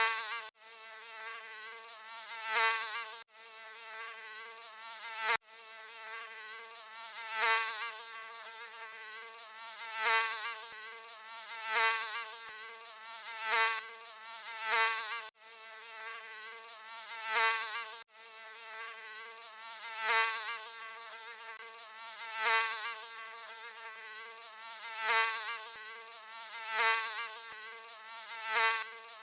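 Mosquito buzzing: a high, wavering whine that swells and fades about every two to three seconds, breaking off for an instant several times.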